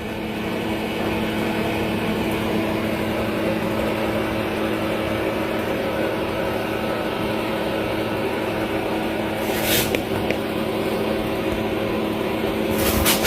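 The electric drive of a radio-controlled construction machine running with a steady whirring hum, with a brief rattle about ten seconds in and a few clicks near the end.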